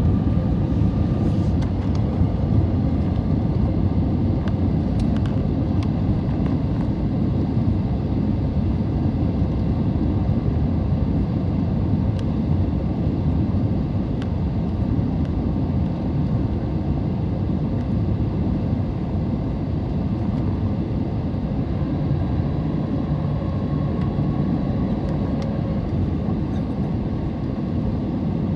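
Airliner cabin noise inside an Airbus A320neo in flight: a steady low rumble of airflow and engines, with a faint steady whine that grows slightly stronger near the end.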